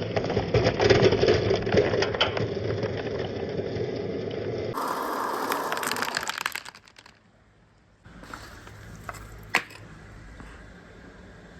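Marbles rolling and clattering along a marble run track, a dense rattle of small clicks that fades out about seven seconds in. After a short hush, one sharp click sounds a couple of seconds later.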